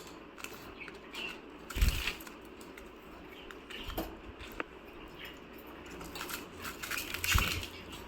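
Pet budgies moving and feeding: scattered small clicks and rustles, a few faint short chirps, and two louder thumps, about two seconds in and near the end, such as wing flaps or landings.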